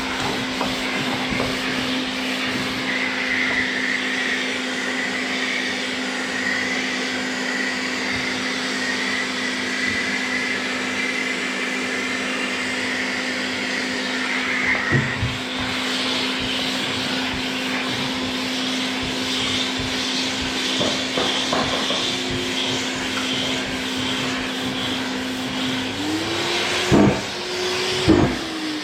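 Orbital sander with dust extraction running steadily on body filler, a constant hum with a hiss of abrasive. Near the end its pitch rises and falls back, with two knocks.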